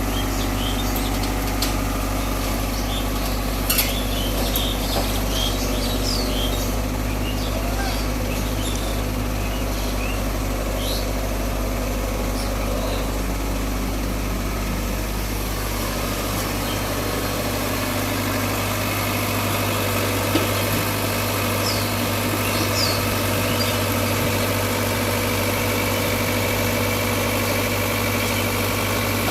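Heavy diesel engine idling steadily with a low drone, with a couple of short knocks.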